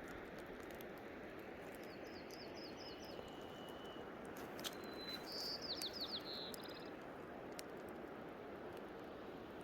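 Steady rush of a waterfall, with small birds chirping over it: a quick run of about five high notes a couple of seconds in, then a louder burst of fast chirps a little past the middle.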